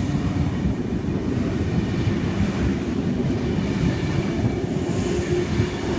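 Sydney Trains K-set electric double-deck train moving through the platform with a steady, loud rumble of wheels on rails.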